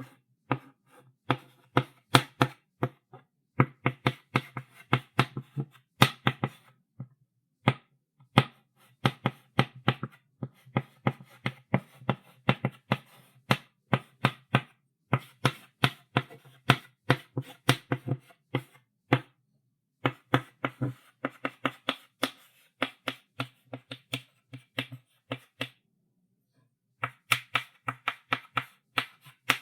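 Chalk writing on a blackboard: quick runs of sharp taps and short strokes as the chalk hits and drags across the board, broken by brief pauses about a third of the way in, past halfway and near the end.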